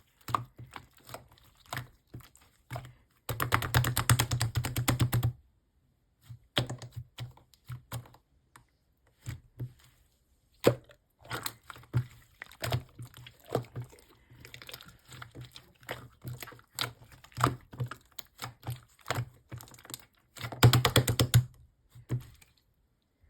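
Slime being pressed and worked by hand, giving sticky clicks and pops, with two runs of rapid crackling, one about three seconds in and one near the end.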